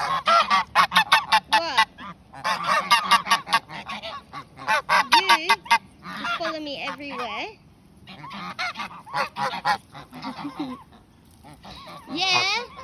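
Pet geese honking back and forth in bursts of rapid, chattering calls with short pauses between: several geese calling to each other.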